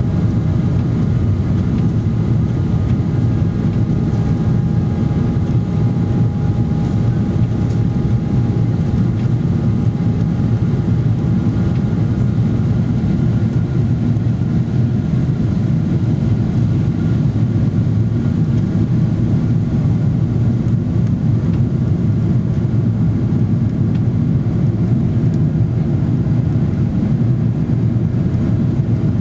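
Steady engine and airflow roar inside the cabin of a Boeing 777-300ER with GE90-115B engines, heavy and low, with a few faint steady whining tones above it.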